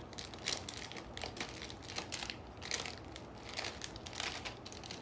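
Plastic snack wrappers crinkling in irregular bursts as packets of snacks and chocolate are picked up and handled.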